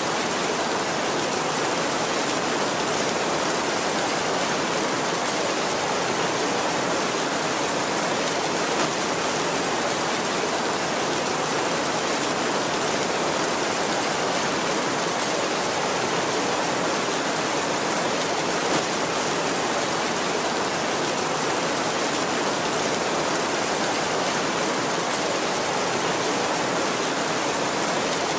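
Heavy rain falling steadily on a tin roof: a dense, even hiss with no thunder.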